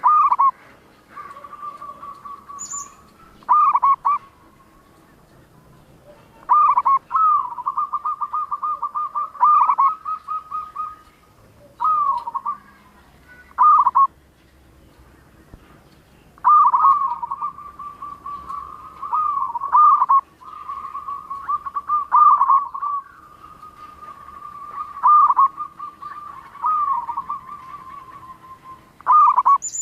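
Zebra dove (perkutut) cooing its song over and over: phrases of fast rolling notes ending in swooping coos, with short pauses between bouts. A brief, thin, high-pitched chirp sounds twice, about three seconds in and again at the end.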